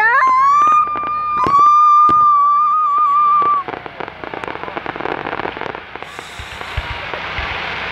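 Fireworks: a high, steady whistle for about three and a half seconds, then a long dense crackling.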